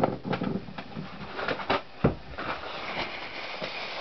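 Small metal engine parts being handled and set down on a workbench: a series of clicks and clinks, with a sharper knock right at the start and another about two seconds in.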